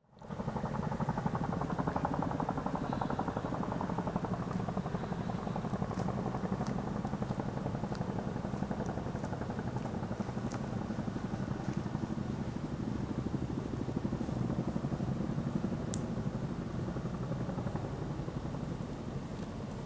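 Campfire burning: a steady low rush with a few sharp pops and crackles of burning wood, the loudest near the end.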